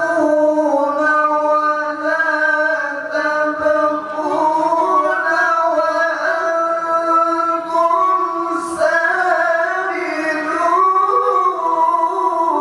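A single voice reciting the Qur'an in melodic tilawah style, holding long ornamented notes that slide up and down between pitches, with short breaks for breath.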